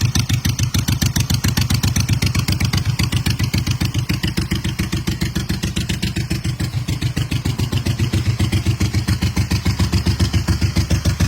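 Harley-Davidson Sportster 1000 Ironhead V-twin engine running steadily at idle, its exhaust pulses coming in a quick, even beat.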